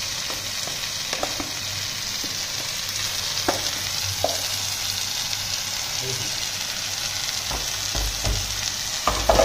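Prawns in masala gravy sizzling steadily in a kadai while a steel spatula stirs them, with scattered clicks of the spatula against the pan and a few heavier knocks near the end.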